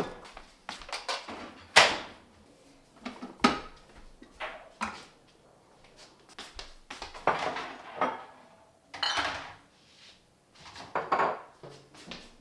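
Food containers, jars and packages being taken out of a refrigerator and set down: separate knocks and clatters, with rustling and sliding sounds in between.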